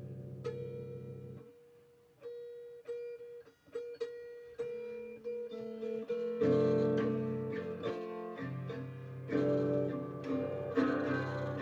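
Instrumental guitar music: a held chord dies away, then single plucked notes follow with pauses, and fuller plucked chords come in about six seconds in.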